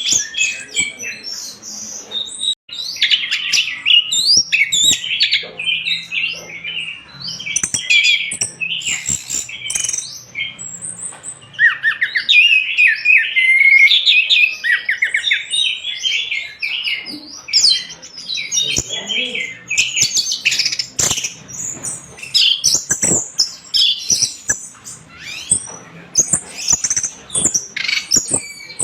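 Orange-headed thrush (anis merah) singing vigorously, a continuous stream of rapid, varied high chirps, whistles and trills.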